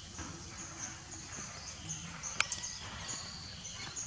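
Outdoor ambience with birds chirping high and repeatedly in short phrases, and a single sharp click about two and a half seconds in.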